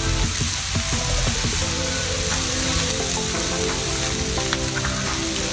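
Beef and thiên lý flowers sizzling in a hot pan as they cook: a steady frying hiss.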